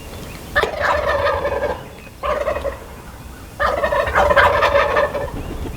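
Wild turkey gobblers gobbling three times, each a rapid rattling call, the third the longest.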